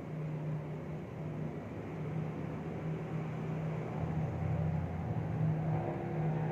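A steady low mechanical hum with a constant pitch, growing louder about four seconds in.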